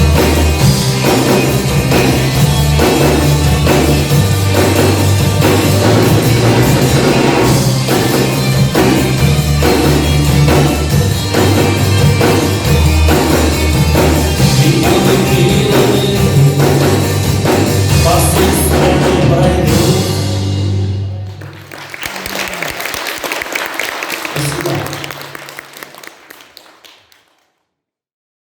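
Live rock band playing, with drum kit and bass guitar prominent; the song ends about three quarters of the way through. Audience applause follows and cuts off abruptly near the end.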